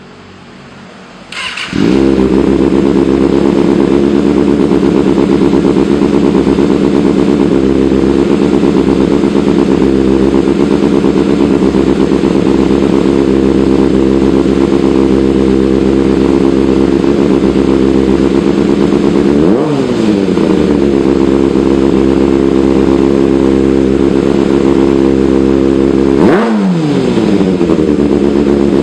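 Motorcycle engine with an Austin Racing exhaust starting up about two seconds in and settling into a steady idle. The throttle is blipped twice, at about 20 and 26 seconds, each a quick rise in pitch that drops straight back to idle.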